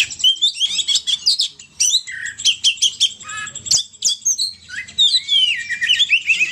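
Burung poci birdsong used as a trapping lure call: a rapid run of high chirps and whistled notes sliding up and down in pitch, many in quick succession.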